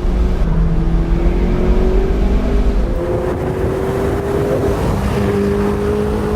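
A supercar engine pulling along under load inside an open-top car. Its note rises slowly and steps down at gear changes about three and five seconds in, over steady road and wind noise.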